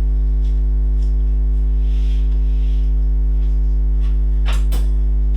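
Loud, steady electrical mains hum with a stack of overtones, with a couple of light knocks near the end.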